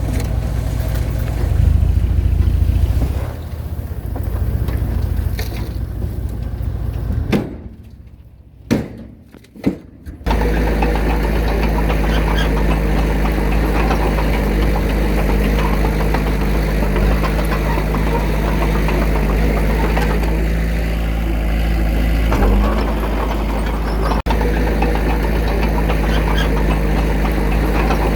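Diesel engine of heavy earthmoving machinery running under load, heavy and low. About seven seconds in it falls quiet for roughly three seconds, with a few clicks, then cuts back in abruptly and runs on steadily with a clear engine hum.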